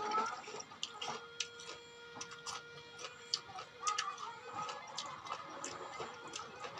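Close-up chewing of crunchy raw fruit, starfruit dipped in rujak sauce: short irregular crunches and wet mouth clicks.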